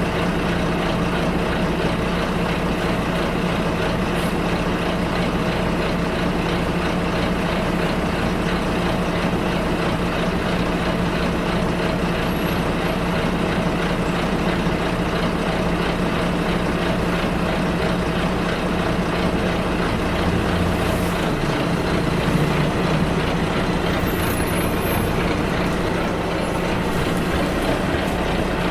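A bus in motion, heard from inside: a steady engine drone over road noise. The low engine note shifts about two-thirds of the way through.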